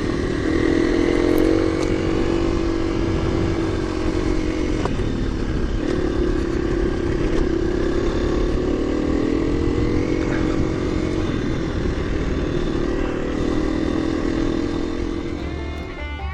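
KTM 350 EXC-F's single-cylinder four-stroke engine running as the dirt bike is ridden at moderate revs, its pitch rising and falling gently with the throttle, with a few light knocks.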